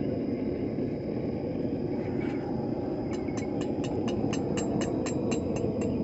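A blacksmith's hammer striking hot steel on an anvil in quick, even light blows, about four to five a second, starting about halfway through, to flatten and smooth the curve of a forged scroll. A steady rushing noise runs underneath.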